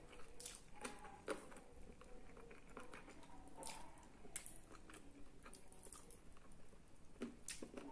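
A person eating roast chicken and rice by hand, chewing with soft, irregular mouth clicks and smacks.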